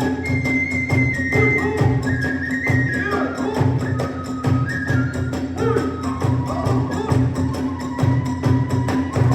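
Kagura hayashi ensemble playing: a transverse flute carries a stepping melody over repeated drum beats and frequent clashes of small hand cymbals.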